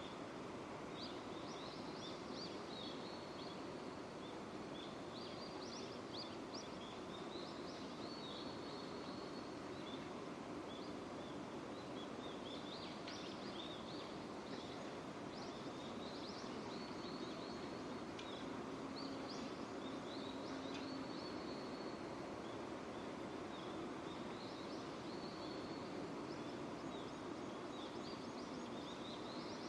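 Steady rain falling, with birds chirping again and again over it.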